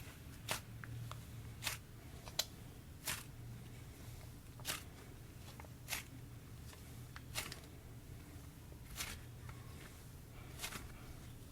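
Slime mixed with crunchy sprinkles being squeezed and folded by hand, giving a string of sharp pops and clicks about once a second. The slime is a little dry.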